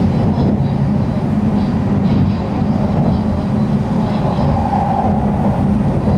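Tokaido Shinkansen train running at speed, heard from inside the passenger cabin: a steady low rumble.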